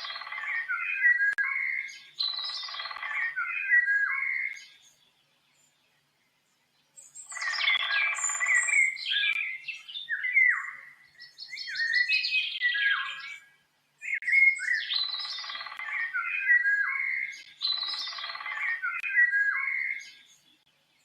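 Songbird singing in warbling phrases of two to three seconds, the same song pattern coming round again and again, with brief complete silences between groups of phrases.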